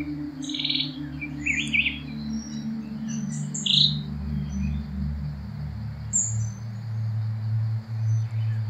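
Birds chirping in short calls and quick trills over a low, sustained drone of tones that changes pitch about two-thirds of the way through.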